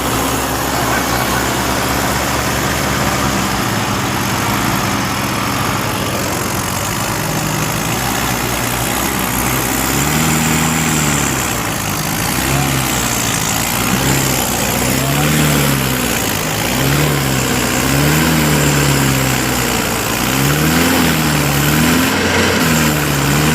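Mahindra Arjun tractor's diesel engine running steadily. From about ten seconds in, a tone rises and falls over and over, about every second and a half.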